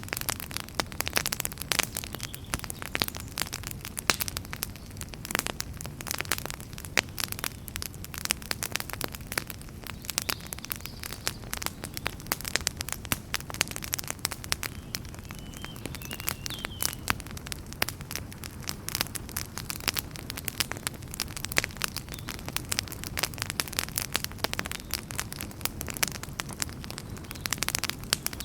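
Wood fire in a fireplace crackling and popping, with many sharp irregular pops over a steady low hiss.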